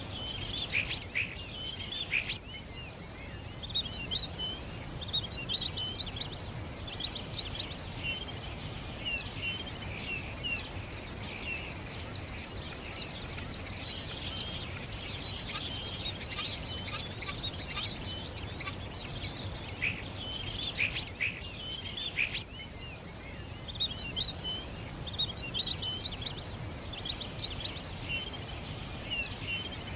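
Small songbirds chirping and twittering, several at once, in quick overlapping chirps and short trills, over a steady low background rumble.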